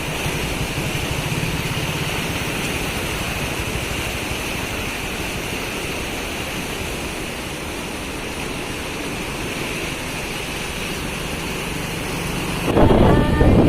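Steady rushing of the rain-swollen Hundri river's water, an even hiss that does not change. Near the end it cuts off abruptly to a louder sound with a clear pitch.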